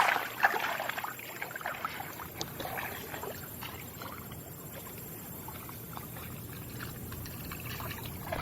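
Water splashing for the first few seconds, then lapping over a steady low rumble.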